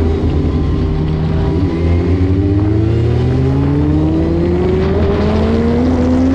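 Motorcycle engine accelerating through the gears: its pitch climbs steadily, drops sharply at an upshift about a second and a half in and again near five seconds, then climbs again.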